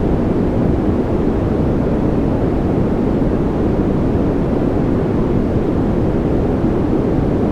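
Steady, unchanging sleep noise sold as white noise, loud and even throughout. Its energy sits mostly in the low and middle pitches and thins out toward the top, so it sounds like a deep, even rush rather than a bright hiss.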